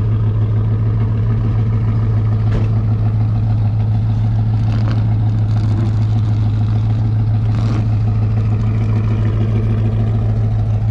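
An engine idling steadily: a constant low hum with no change in speed. A few faint knocks sound over it.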